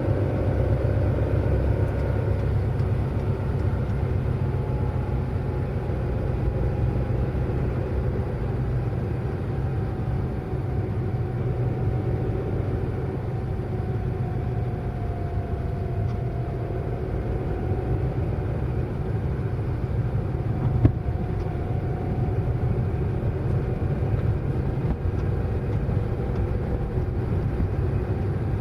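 Car driving at speed: steady engine and road rumble, with the engine's pitch drifting gently up and down. One sharp click about twenty-one seconds in.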